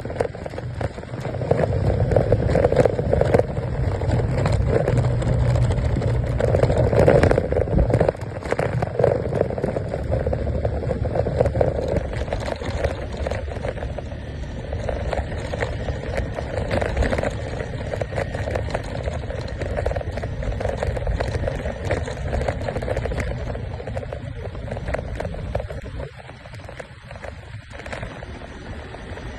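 Motor scooter running, with rough, continuous noise that fits riding on a rough forest track. It is louder in the first half and eases off in the second.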